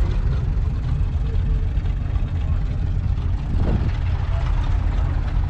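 John Deere 6400 tractor's 4.5-litre four-cylinder diesel engine running steadily with a low, even rumble.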